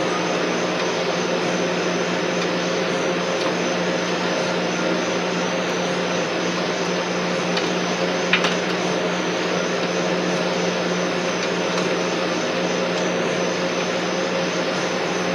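Steady machine drone, an even rushing noise with a constant low hum, and one short sharp click about eight seconds in.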